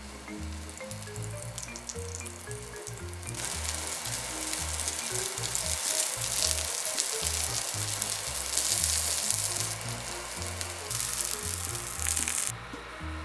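Broccoli-and-shrimp batter pancakes sizzling as they fry in oil in a pan. The sizzle grows much louder about three seconds in and cuts off shortly before the end, over soft background music.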